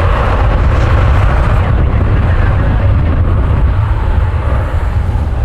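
Loud, steady jet engine noise of a departing airliner, with a deep rumble underneath.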